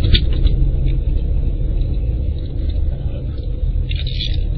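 Pontiac Trans Am driving, a steady low rumble throughout.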